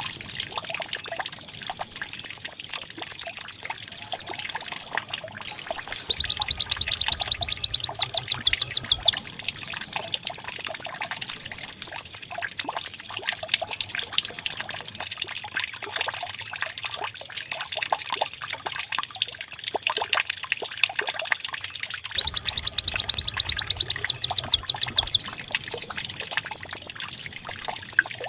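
Recorded white-eye (pleci) song played as a lure track for caged white-eyes: high, rapid trills of rising notes repeated in the same phrases. The song breaks off briefly about five seconds in, and falls to faint scattered ticks for about seven seconds past the middle before the trills resume.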